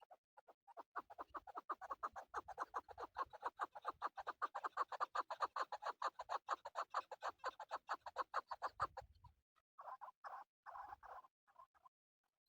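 Male chukar partridge calling: a fast run of chuck notes, about five a second, from about a second in until about nine seconds, then a few separate calls.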